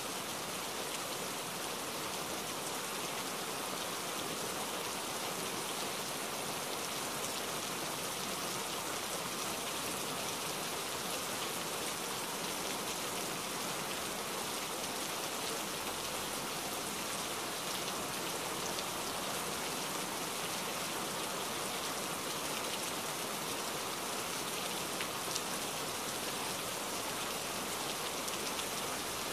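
Heavy rain falling steadily: an even hiss of countless drops, with faint individual drop strikes scattered through it.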